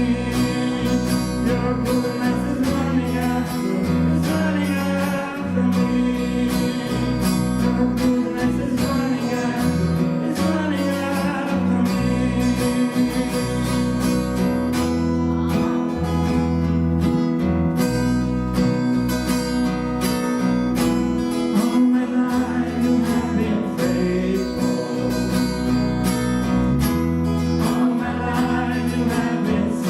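Church worship music led by a strummed acoustic guitar, with low bass notes under it.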